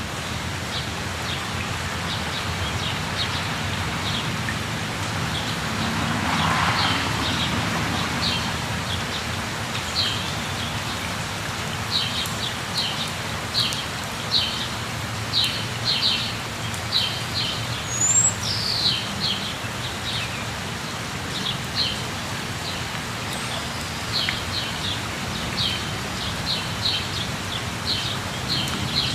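A steady rush of falling water, with birds chirping in quick short high notes over it, thickest in the second half, and a brief whistled slide in pitch a little past the middle.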